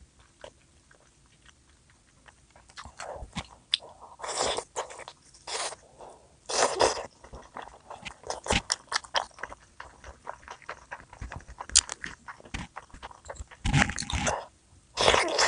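Close-miked eating: bites and chewing in irregular bursts, mostly quiet for the first two seconds, with the loudest bites around four to seven seconds in and again near the end.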